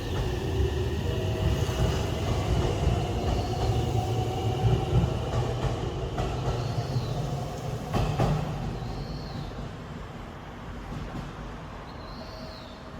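Aonami Line electric train running out of the station. Its low rumble carries a few sharp wheel-on-rail knocks and short high squeals, and fades after about eight seconds as it recedes.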